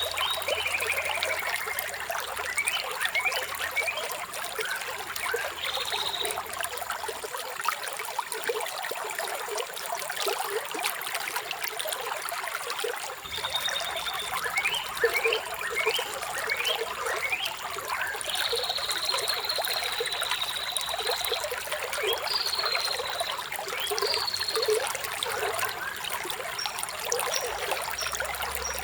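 Shallow water trickling and splashing steadily, with small birds chirping over it: a falling call near the start, quick rising chirps around the middle, and a long high trill a little after halfway.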